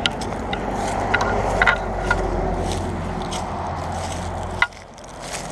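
Steady low rumble of busy highway traffic, with scattered crunching and scraping footsteps on debris. A sharp knock comes near the end, and the rumble drops off right after it.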